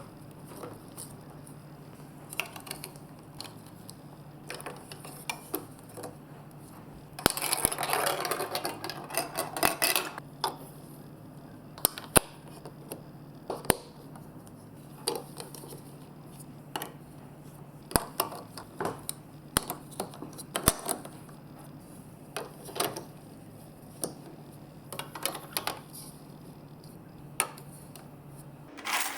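Marbles clicking and rattling along a plastic building-block and magnet marble run, as sharp, irregular clicks, with a denser rushing patch lasting a few seconds about a quarter of the way in.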